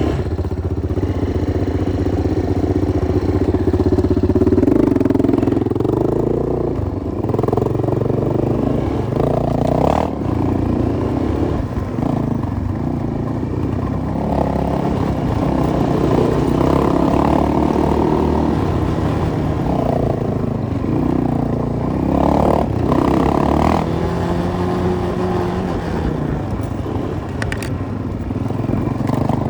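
Enduro motorcycle engine running under way, its revs rising and falling through the ride, with a few short knocks.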